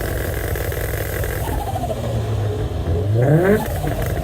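Car engine running steadily, then revved, its pitch rising, about three seconds in.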